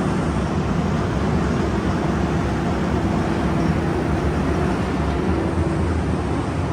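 A machine's engine running steadily, with a constant low hum and a steady tone throughout.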